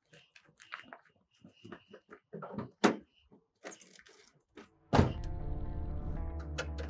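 Footsteps and light knocks, then about five seconds in a sudden thump and a car engine starting up, running on at a steady idle.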